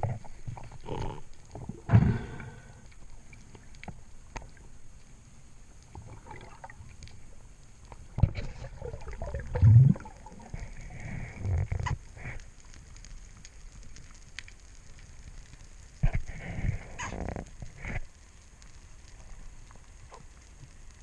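Water gurgling and sloshing in irregular bursts a few seconds apart, with the loudest surges about two seconds in and around ten seconds in.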